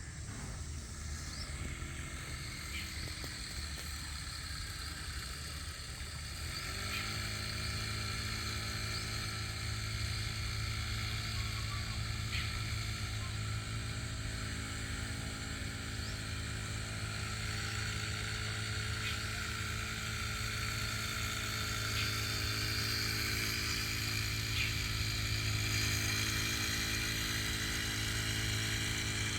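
An engine starts running about six and a half seconds in, its pitch rising briefly and then holding steady, over a faint steady high-pitched background with a few light ticks.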